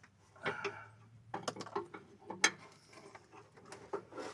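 Hand tools working on metal under a car: a series of irregular metallic clicks, knocks and ratcheting.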